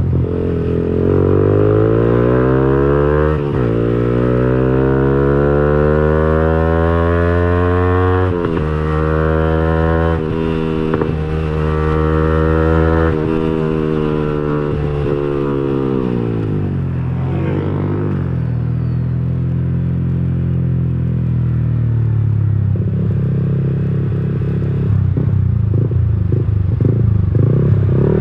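Yamaha R15 V3's single-cylinder four-stroke engine through a Villan Agusta aftermarket racing exhaust while riding: revs climb through several upshifts, then fall away as the bike slows, ending at low revs with an uneven burble.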